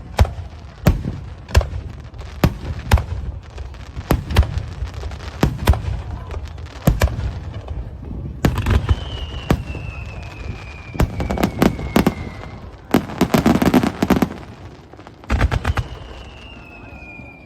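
Fireworks display: aerial shells bursting with sharp bangs at irregular intervals, a dense run of rapid crackling about two-thirds of the way in, and twice a long whistle that slides down in pitch.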